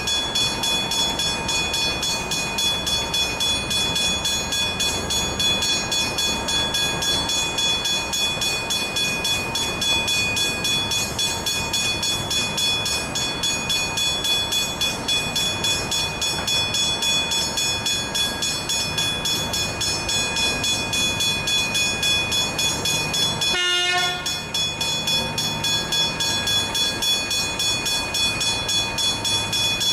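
Level crossing warning bells ringing rapidly and continuously, with a brief break about three-quarters of the way through.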